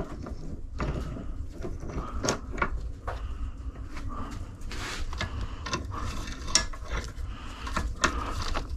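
Irregular clicks, knocks and scrapes of metal tools and parts being handled and set up at a workbench.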